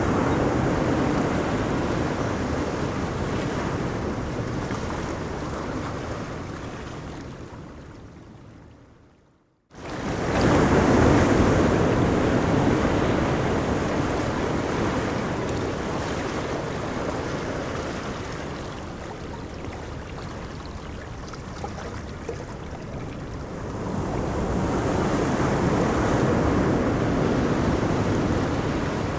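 Ocean surf washing onto a beach in a steady rushing wash that swells and ebbs. About a third of the way in it fades away to a moment of silence, then cuts back in abruptly, and it swells up again near the end.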